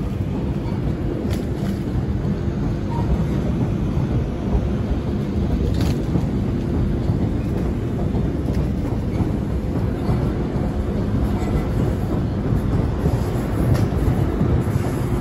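Passenger train crossing the Royal Albert Bridge's girder approach spans overhead: a steady low rumble.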